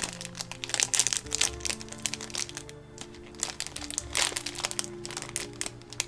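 Plastic kit-parts bag crinkling and crackling in an irregular run as small parts are picked out of it one by one, over background music with steady held tones.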